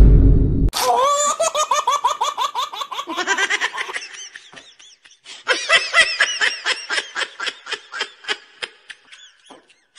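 Laughter in long runs of quick, evenly spaced, high-pitched 'ha-ha-ha' beats, starting just under a second in as loud music cuts off, pausing briefly around the middle and fading near the end.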